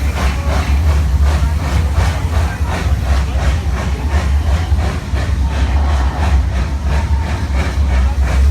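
Zoo railroad train running along with a steady low rumble and an even beat of about three to four strokes a second.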